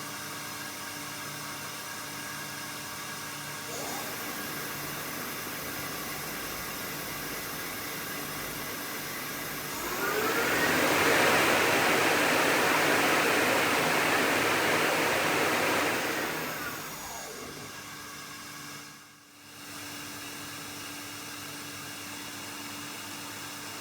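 Main spindle of a Mazak INTEGREX 400-IV CNC lathe, carrying a 12-inch hollow chuck, spinning up with a rising whine. At top speed the spinning chuck adds a loud rush of air for about six seconds, then the spindle winds down with a falling whine. A steady machine hum sits underneath throughout.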